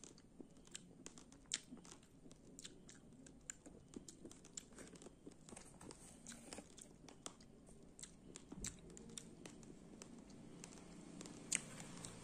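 Raw rice grains being chewed: many small, sharp crunches at an irregular pace, with two louder crunches about a second and a half in and near the end.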